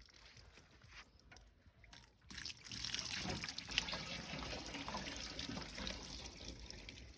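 Water starts running about two seconds in and keeps pouring in a steady stream.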